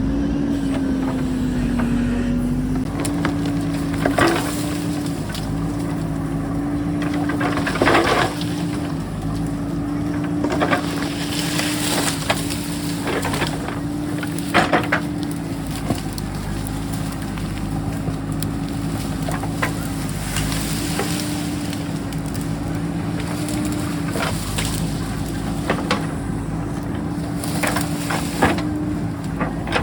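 JCB backhoe's diesel engine running steadily under load while the bucket digs into rocky ground, with repeated short crunches and scrapes of rock and stone every few seconds.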